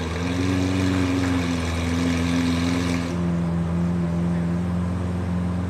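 Lamborghini Aventador LP700-4's V12 idling steadily through an Fi Exhaust aftermarket exhaust, with a deep, even note that turns slightly duller about three seconds in.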